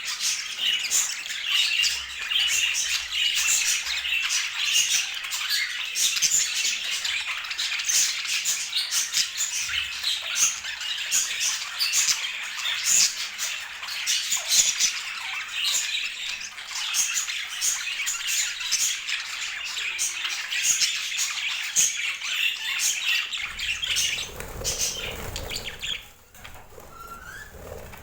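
Budgerigars chattering and squawking in a dense, continuous stream of chirps, thinning out near the end.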